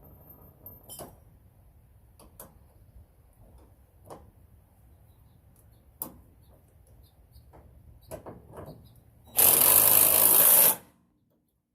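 Light scattered clicks and taps of tools and sockets, then a cordless impact wrench runs once for about a second and a half near the end, tightening down a suspension bolt.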